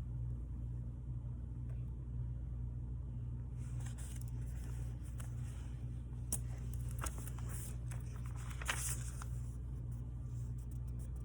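Paper and tape being handled on a planner page: light rustles and a few sharp clicks, mostly from about three and a half seconds in, over a steady low hum.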